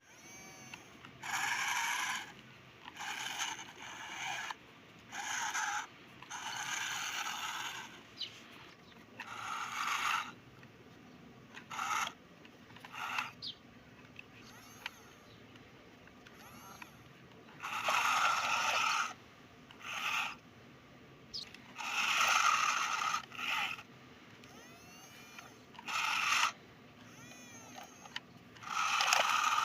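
Repeated short scraping noises, about a dozen, each lasting half a second to a second and a half, with quiet gaps between.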